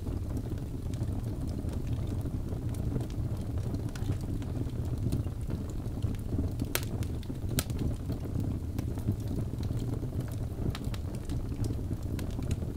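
Wood fire burning in a fireplace: a steady low rumble of flames with scattered crackles, and two sharper pops about seven seconds in.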